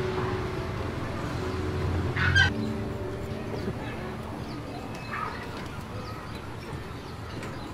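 Short bird calls over a low steady hum: a clear call about two seconds in and a fainter one around five seconds.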